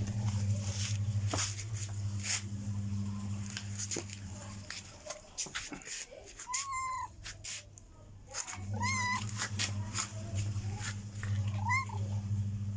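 Domestic cat meowing three times, short arched calls a few seconds apart, over scattered clicks and a low steady hum that drops out for a few seconds in the middle.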